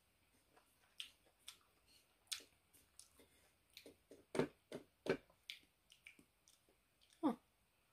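Close-miked chewing and biting of mango slices: an irregular run of sharp mouth clicks and short crunches, with the loudest few coming after about four seconds.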